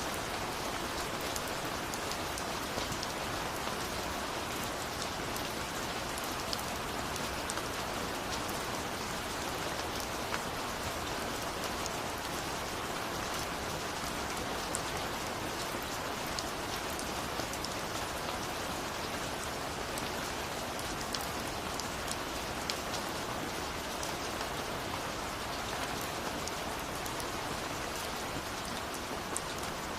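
Steady rain falling and pattering on a surface, with many small drop ticks over an even hiss.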